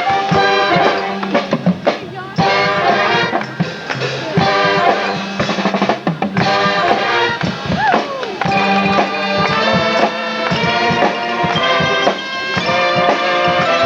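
High school marching band playing: brass and woodwind chords held and changing over snare and bass drum hits.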